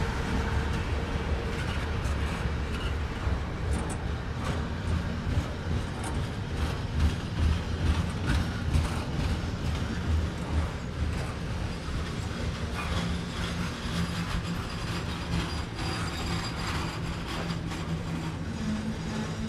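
Double-stack intermodal container train cars rolling past in a steady rumble, with wheels clicking irregularly on the rails. A low steady hum comes in over the last few seconds.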